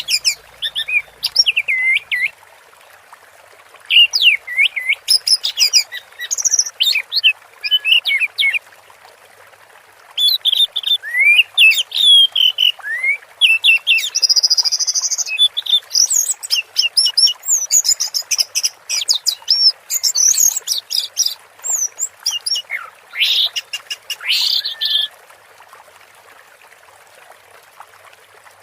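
Orange-headed thrush singing a long, varied song of rapid whistles, swoops and trills in three runs with short pauses, falling quiet near the end. A steady hiss of running water lies underneath.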